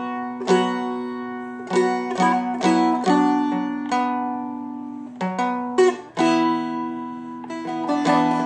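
Seagull Merlin M4, a four-string fretted dulcimer-style instrument, picked and strummed: a melody of plucked notes ringing over sustained drone strings. The notes come in clusters with a longer ring-out about four seconds in.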